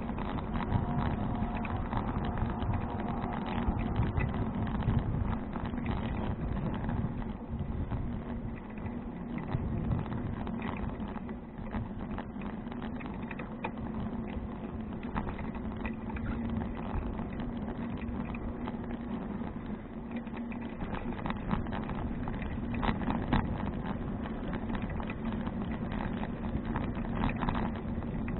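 Riding noise from a 2012 Fuji Touring bicycle rolling along a paved path, picked up by an action camera: a steady rumble and hum from the tyres and wind, with frequent small knocks and rattles over bumps.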